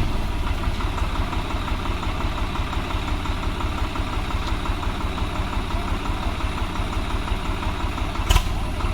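Tractor diesel engine idling steadily with a fast, even low pulse, and a single sharp knock near the end.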